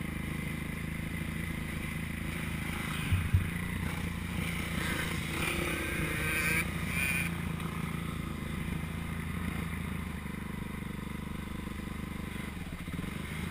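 Motocross motorcycle engine running at a steady pitch, with two sharp knocks about three seconds in.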